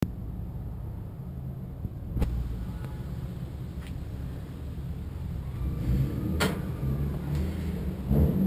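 BMW E30 race car's engine idling with a steady low rumble, broken by a few sharp knocks, the loudest about six and a half seconds in.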